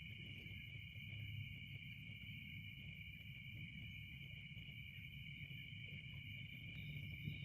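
A faint, steady, high-pitched insect chorus, like crickets or cicadas, running without a break over low background noise.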